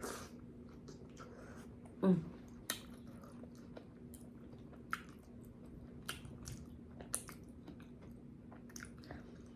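Close-miked chewing and wet lip smacking while eating, a string of short soft smacks and clicks, with a louder one about two seconds in.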